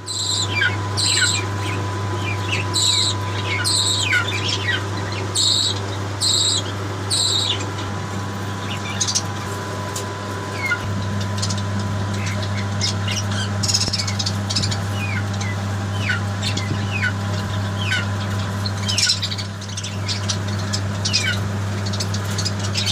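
Pet birds chirping and calling over and over, a mix of short, sharp downward-sliding chirps and brighter repeated calls, over a steady low hum.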